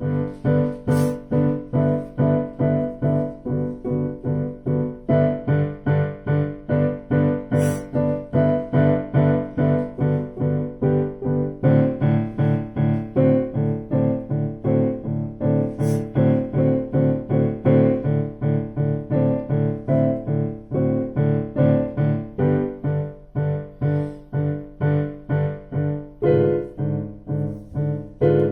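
Piano music: a piece played in an even, steady beat of repeated chords with a melody above.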